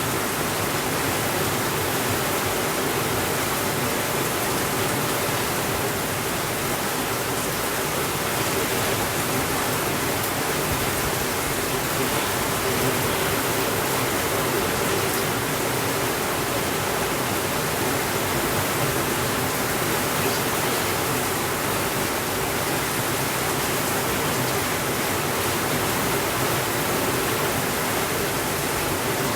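Steady heavy rainfall, an even unbroken hiss with no thunder.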